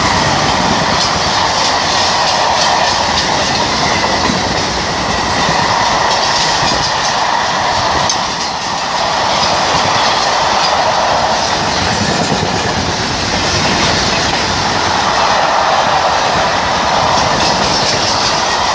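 A freight train of empty car-carrier wagons passing through the station, wheels clattering steadily over the rail joints with a continuous rushing rail noise.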